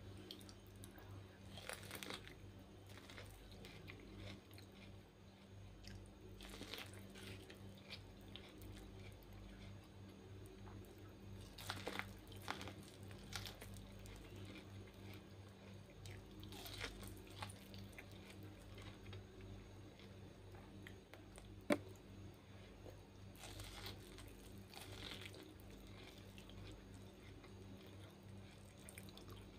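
Faint mouth sounds of chewing and biting boiled corn on the cob, with scattered soft crunches and one sharp click about three-quarters through, over a steady low hum.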